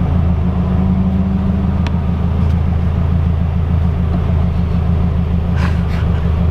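Supercharged Toyota four-cylinder engine of a Lotus Elise, fitted with Larini exhaust and headers, running at a steady pitch while the car is under way, heard from inside the cabin as a low, even drone.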